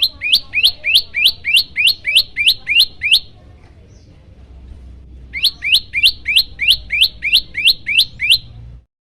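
Prenjak lumut singing two fast runs of sharp, upward-sweeping chirps, about three a second, with a pause of about two seconds between the runs. A low steady hum sits underneath, and the sound cuts off just before the end.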